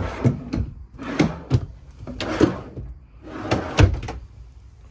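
Storage drawers and cabinet doors in a travel trailer being pulled open and pushed shut: a series of knocks and sliding rattles in four or five clusters, settling about four seconds in.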